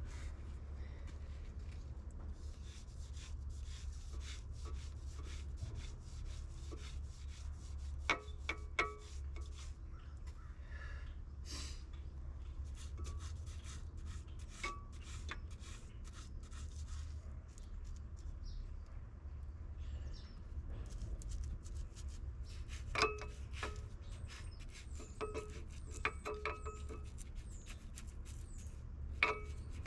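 Irregular scraping and rubbing with many small clicks over a steady low hum, broken by a few short ringing metallic clinks.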